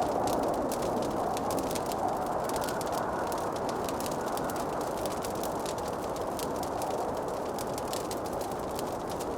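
Wood fire crackling, with many small sharp pops and snaps over a steady rushing noise.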